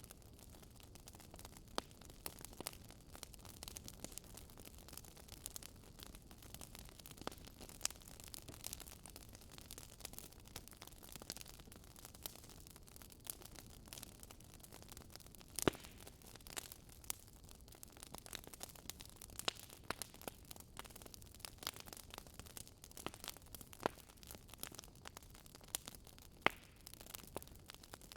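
Wood fire crackling in a fireplace: irregular small pops and snaps over a soft steady hiss, with a sharper pop about halfway through.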